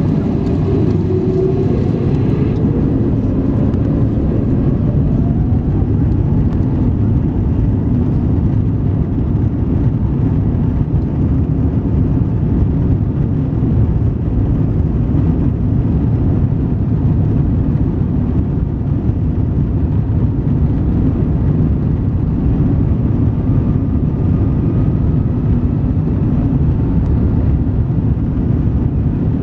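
Jet airliner engines making a steady low rumble, with a faint rising whine about six seconds in and again near the end.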